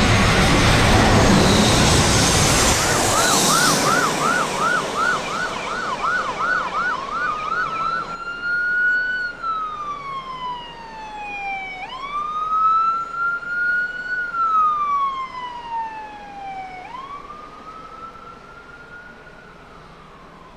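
Jet airliner engine noise fades over the first three seconds as an emergency vehicle siren sounds. The siren first warbles fast in a yelp, then about eight seconds in changes to a slow wail, rising and falling in sweeps a few seconds long, and it fades near the end.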